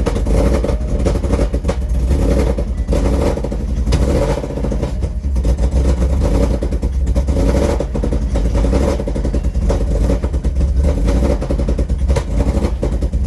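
Ford Mustang GT's V8, with a ghost cam tune, long-tube headers and a Corsa sport exhaust, running loud and uneven just after being started. It doesn't sound the best: the owner blames exhaust clamps that are not yet tightened and a leak.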